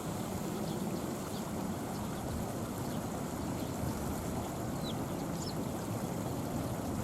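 Strong wind buffeting the microphone, a steady low rumble with no clear engine tone. A few faint short high chirps come through about five seconds in.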